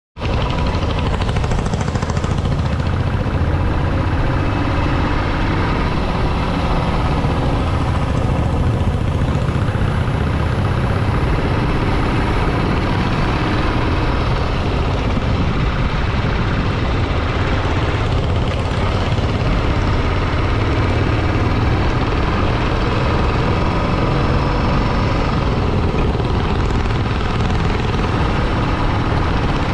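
Motorcycle engine running steadily while riding, under a constant rushing noise.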